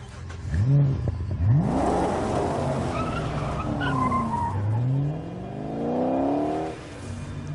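A car engine revs twice and the car pulls away hard with its tyres skidding. The engine then climbs in pitch as it accelerates away, and the sound drops off suddenly near the end.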